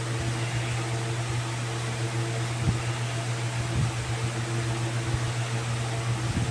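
Steady low mechanical hum of a running motor, with a few fainter steady tones above it and occasional soft low knocks.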